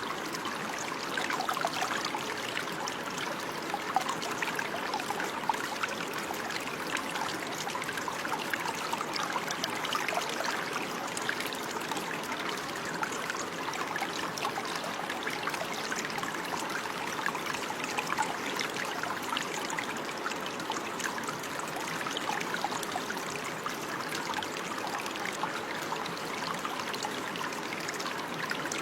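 Running water, a stream trickling and splashing steadily with a dense, even babble.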